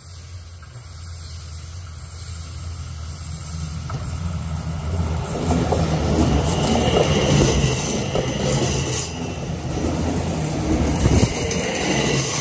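Electric passenger train on the Uetliberg line running, its rumble and wheel noise growing steadily louder over the first five seconds, then staying loud.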